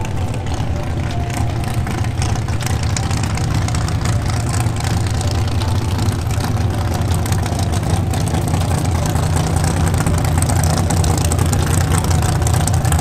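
A drag car's engine idling with a deep, steady rumble, growing slightly louder as the car rolls up toward the starting line.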